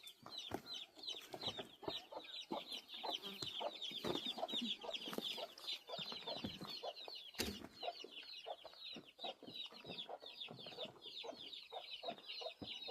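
Chickens clucking, over a constant chatter of high-pitched chirps. There is a single sharp knock about seven seconds in.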